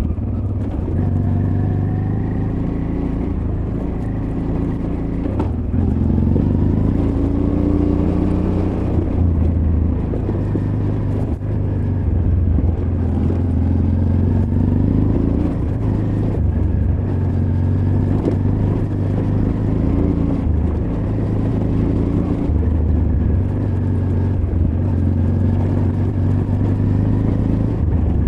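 Honda Transalp XL600V V-twin engine running under load on a rough trail, its revs rising and falling again and again with the throttle. Heard from a recorder in the rider's backpack.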